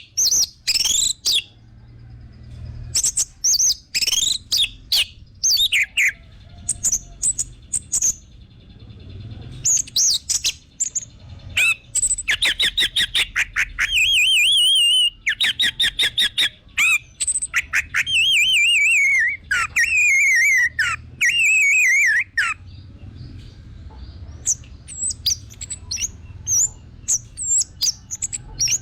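Orange-headed thrush (anis merah) in lively song: a rapid, varied run of sharp chips, falling whistles and warbled trills, busiest in the middle and thinning to short scattered notes near the end.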